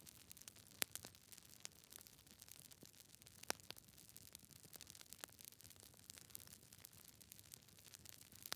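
Wood fire crackling in a fireplace: irregular sharp pops and snaps from the burning logs over a faint low hiss, the loudest pops coming about a second in and again at about three and a half seconds.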